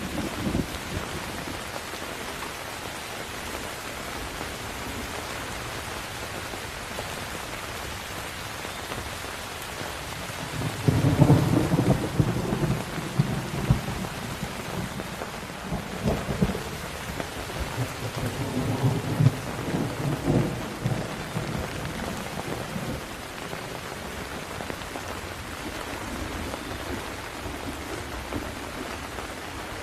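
Steady rain hissing throughout, with a long rolling thunder rumble that breaks about a third of the way in, loudest at its start, and rolls on in waves for about ten seconds.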